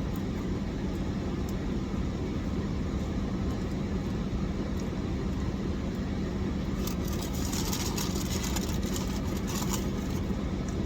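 Steady low hum of an idling car engine heard from inside the cabin. A short stretch of crisp crackling comes about two-thirds of the way through.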